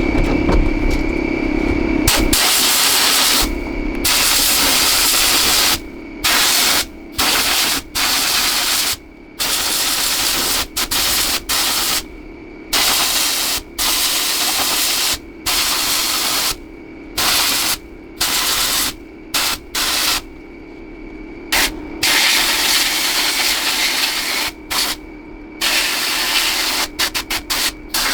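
Compressed air hissing from a trigger-operated air tool in repeated on-off bursts of about half a second to two seconds, each starting and stopping sharply, over a steady hum.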